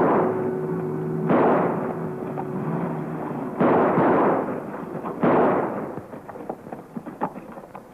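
Old Jeep backfiring: four loud bangs a second or two apart, each dying away. The noise gives the Jeep away as too loud to approach unheard. Background music carries under the first two bangs and stops about halfway.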